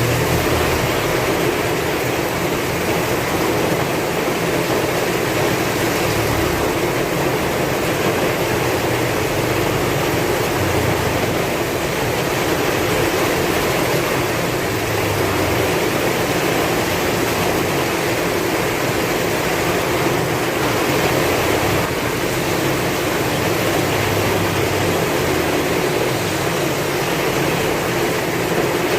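Heavy rain falling steadily in a dense, even hiss, with strong wind gusting in low swells now and then.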